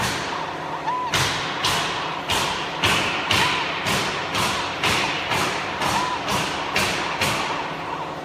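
Machine knocking in a steady rhythm, a little under two sharp clacks a second, with a short electronic beep three times, about every two and a half seconds.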